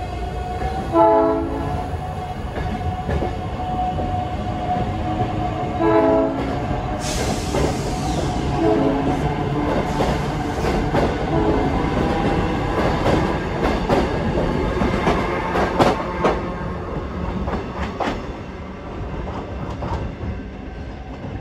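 South Shore Line electric commuter train pulling out past the platform, sounding short blasts on its multi-tone horn, the loudest about a second in and again about six seconds in, over a steady whine. Its wheels then clatter in quick clicks over the rail joints as the cars roll by, and the sound fades as the train draws away.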